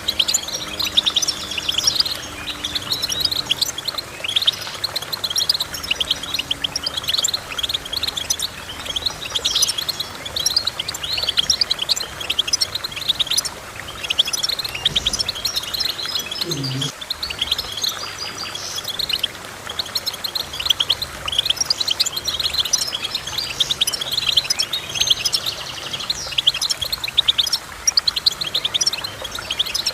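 Goldfinch singing: a continuous, fast twittering of high chirps and trills.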